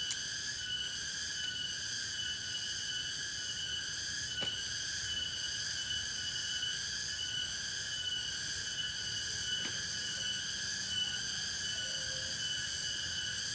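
A dense chorus of insects: several steady, high-pitched buzzing and trilling layers running together, the highest one finely pulsing. A couple of faint ticks sound partway through.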